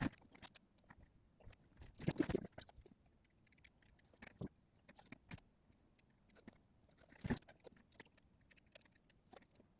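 Faint, scattered small clicks and taps, with brief clusters of them about two seconds in and again about seven seconds in.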